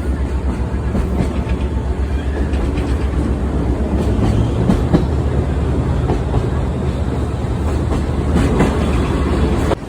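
Sightseeing trolley train running on the rails: a steady rumble with wheel clatter over the rail joints.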